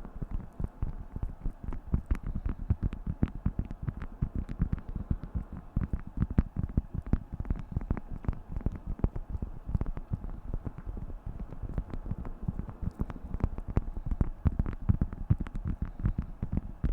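Beeswax food wrap crinkled and handled, a dense, continuous run of small crackles and clicks.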